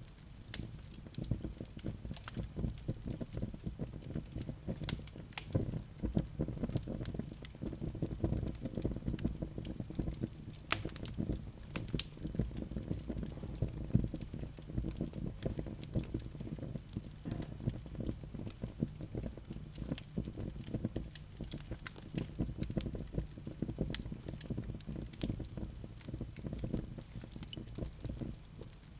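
Wood fire burning in a fireplace: a dense run of small crackles and pops over a steady low rush of flames, with a few sharper pops.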